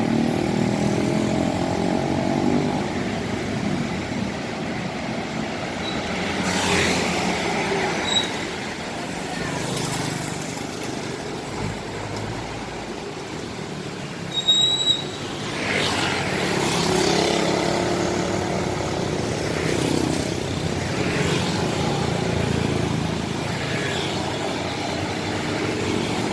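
Buses moving through a bus terminal: a diesel bus engine running near the start, then several more buses passing one after another. A few short, high beeps sound along the way, and there is a brief loud knock about fourteen seconds in.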